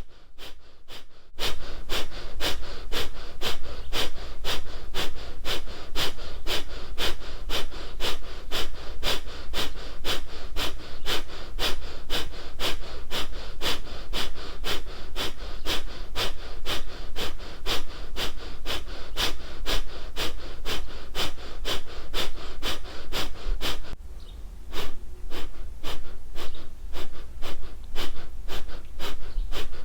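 Kapalbhati pranayama breathing: rapid, forceful sniff-like exhalations through the nose at about two a second, each followed by a passive inhale. The strokes begin about a second and a half in, pause briefly near 24 seconds, then resume.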